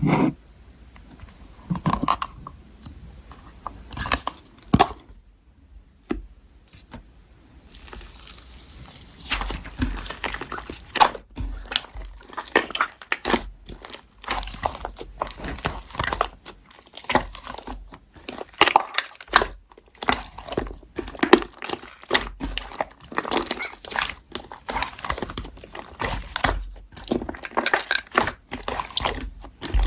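Slime being squeezed and poked by hand, making irregular sticky crackling and squishing clicks. It is sparse at first and becomes a dense run of crackles from about eight seconds in.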